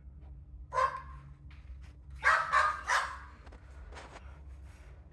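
Dog barking: a single bark, then three barks in quick succession a second and a half later, and a faint last one.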